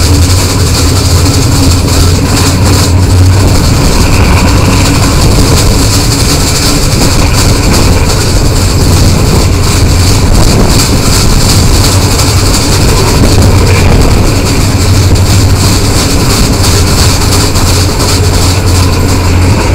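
Moving passenger train, heard from an open coach doorway: a steady, loud low rumble of the running train with air rushing past.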